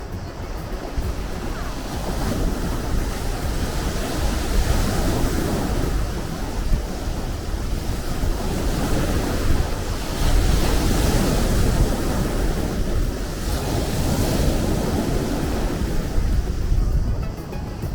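Sea waves washing in and breaking in a continuous surge, swelling and easing every few seconds, with wind on the microphone.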